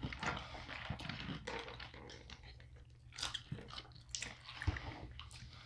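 Close-up chewing of crunchy food: irregular crisp crunches and wet mouth sounds.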